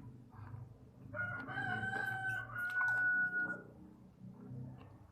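A rooster crowing once in the background, a single long crow of about two and a half seconds starting about a second in.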